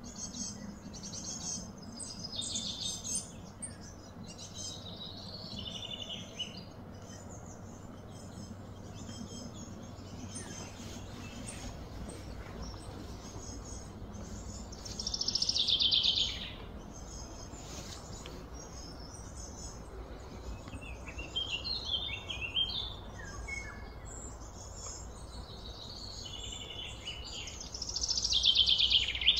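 Small birds chirping and calling, with two louder, rapid trills, one about halfway through and one near the end, over a steady low hum.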